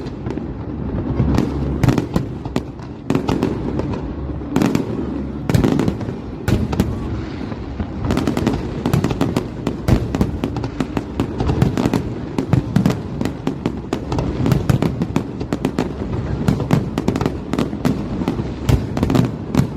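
Fireworks display: a dense barrage of bangs and crackling bursts, several a second, over a continuous low rumble.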